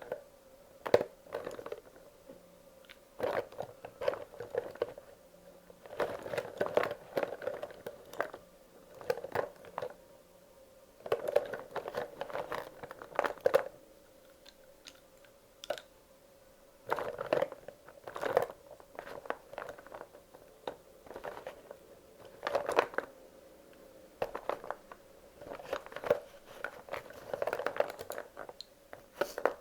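Wax crayons clicking and clattering against one another as they are handled and sorted, in irregular bursts of sharp ticks separated by short pauses.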